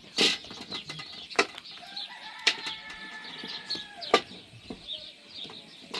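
Farmyard chickens: small high chirps throughout, a long drawn-out call from about two seconds in to nearly four, and four sharp clicks scattered through.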